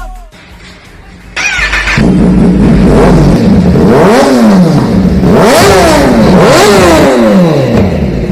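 Motorcycle engine being revved in repeated throttle blips, its pitch jumping up and falling back about once a second, starting loud about two seconds in.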